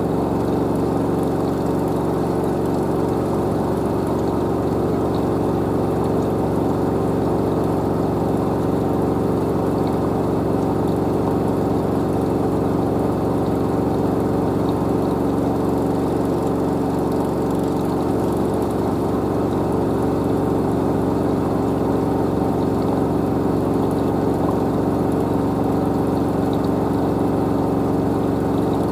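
LG DirectDrive F1496AD washer dryer spinning at full speed: a steady, even hum from its direct-drive motor and the spinning drum.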